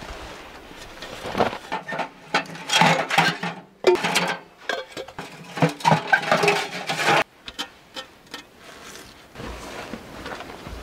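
Irregular knocks, clicks and scrapes of hands working with tools and materials, dense for several seconds and stopping abruptly about seven seconds in, then only faint scattered handling noise.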